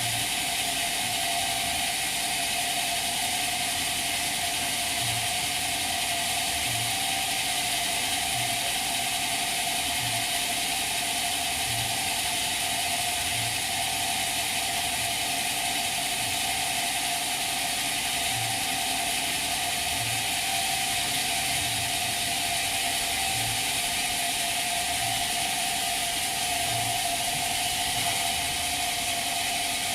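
Sawmill machinery running steadily: a constant mechanical hum with a steady mid-pitched tone and high hiss, and a faint low knock repeating about every second and a half.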